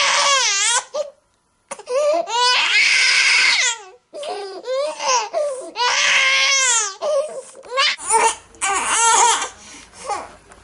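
Infant crying: long wailing cries whose pitch wavers up and down, in three bouts broken by abrupt cuts. From about 8 seconds in a different recording takes over, with a low steady hum underneath and shorter, broken cries.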